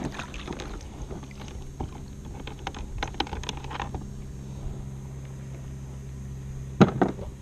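Light clicks and knocks of a person moving about on a kayak and handling gear, with one louder knock near the end.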